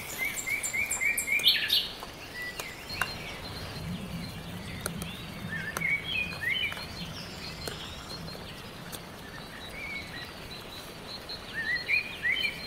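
Wild birds calling and singing: a quick run of repeated high chirps in the first second and a half, then short chirping phrases now and then, loudest near the end. Scattered sharp clicks sound between the calls.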